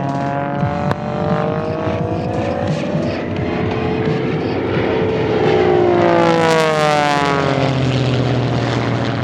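Propeller engines of two Pitts aerobatic biplanes, the radial-engined Pitts Model 12 and the Lycoming-powered Pitts S1-11X, flying a formation pass. The engine note falls in pitch as they go by, and a second, louder pass comes a little after the middle.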